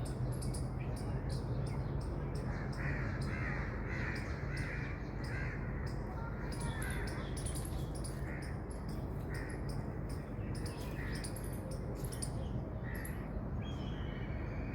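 An unidentified bird or animal making short, irregularly spaced calls, about a dozen of them, against a fast high ticking and a steady low hum.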